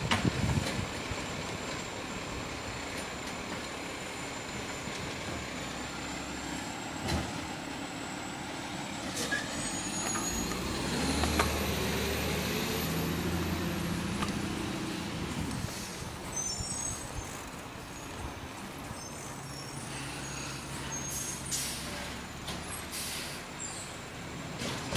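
Garbage truck's diesel engine running, revving up for several seconds midway through, with short sharp hisses and clanks.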